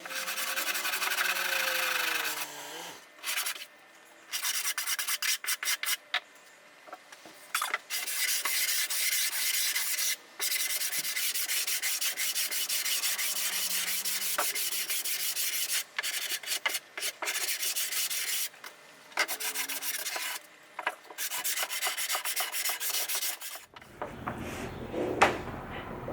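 Hand sanding or rubbing on wood: rapid scratchy strokes in spells of a few seconds, broken by short pauses.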